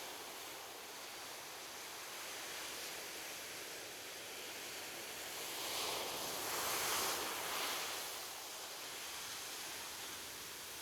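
Soft ocean waves washing on a shore, a steady hiss of surf with one wave swelling and breaking about six to eight seconds in before fading back.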